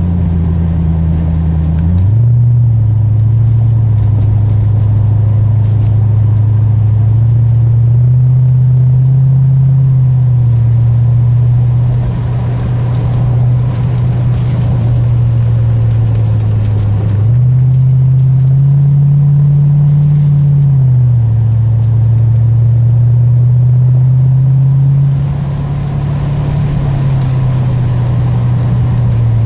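C4 Corvette's V8 engine heard from inside the cabin under way on a racetrack lap. Its note drops sharply about two seconds in, holds steady, climbs again past the middle, drops back a few seconds later and sags once more near the end.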